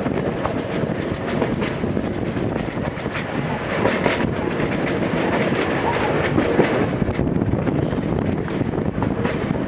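Gakunan Railway 7000 series electric railcar running along the line, heard from inside the car: a steady rumble of the wheels on the rails.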